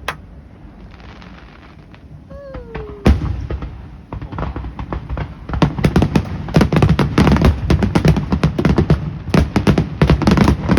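Fireworks grand finale: a sharp bang, then a big boom about three seconds in, then from about halfway a dense, rapid barrage of bangs and crackles running together.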